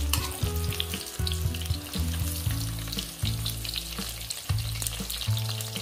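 Chunks of long green eggplant sizzling and crackling as they fry in hot oil in a wok, with a metal ladle stirring them at the start. A low hum that steps in pitch runs underneath.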